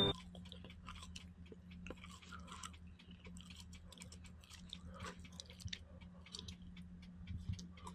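Faint steady low hum with scattered light clicks and crackles.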